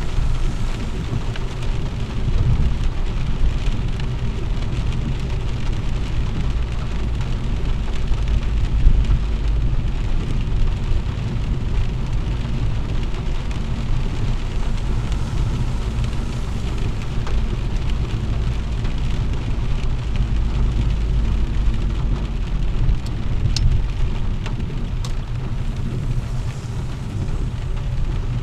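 Rain on a moving car heard from inside the cabin: a steady hiss of rain and tyres on the wet road over a continuous low rumble.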